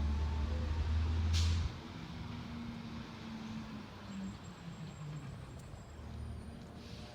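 Garbage truck's engine running with a strong low hum, and a short hiss of air about a second in. The engine sound drops off sharply soon after, leaving a quieter low rumble.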